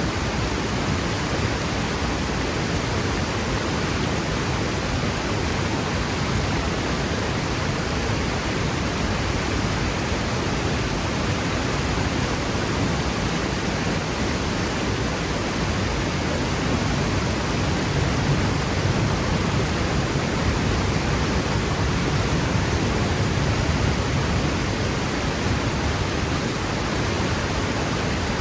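Waterfall crashing into its plunge pool: a steady, dense rushing roar of falling water with no pauses or changes.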